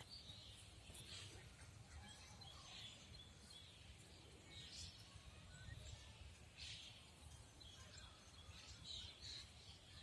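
Faint songbird chirps and calls, short notes scattered every second or so, over a low background rumble.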